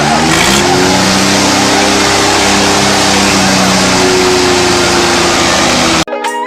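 A loud engine revs up over the first half-second, then runs hard at steady high revs amid heavy noise, and cuts off abruptly about six seconds in.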